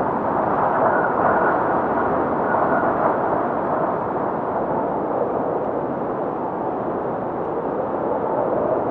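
Blizzard wind howling steadily, a dense rushing noise with a faint higher whistle about one to three seconds in.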